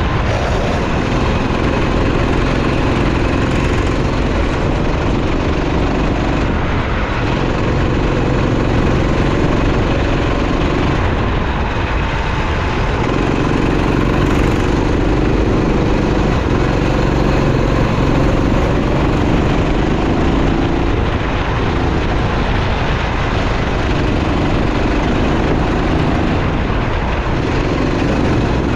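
Kart engine at racing speed, revving up along the straights and dropping back as the driver lifts for corners, over and over.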